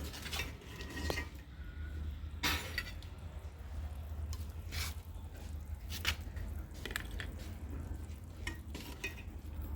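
Metal spoon scraping and clinking against a metal cooking pot while stirring, in irregular strokes a second or two apart, over a steady low hum.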